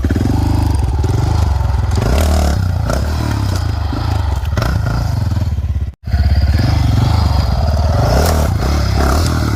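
Dirt bike engine running at low speed under clutch and throttle, with a few knocks and scrapes as the bike rides up against and over a log. The sound drops out for an instant about six seconds in.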